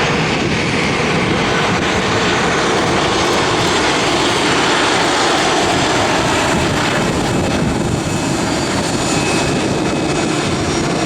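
Airliner engines running loud and steady, a dense rush with a faint high whine in it.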